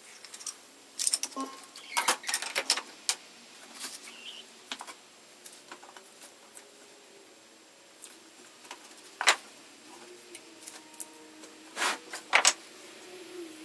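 Small wooden pieces of a walnut box being handled and set down: irregular sharp clicks and knocks, a few in quick clusters.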